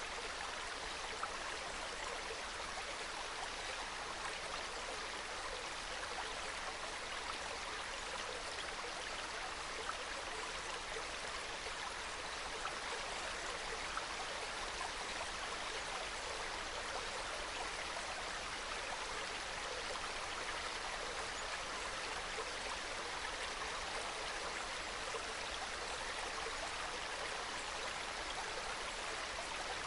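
Small mountain stream trickling and babbling over rocks, a soft, steady flow of water.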